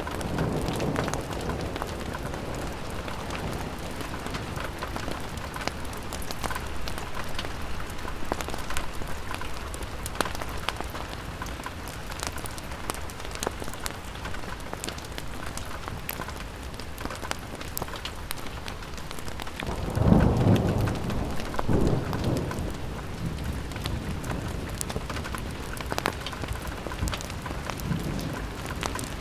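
Steady rain pattering on a window, with scattered sharp crackles from a fire. Low rolls of thunder rumble through it, the loudest about twenty seconds in.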